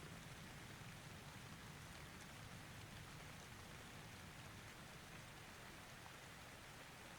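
Faint, steady rain: an even hiss of falling rain with no thunderclap.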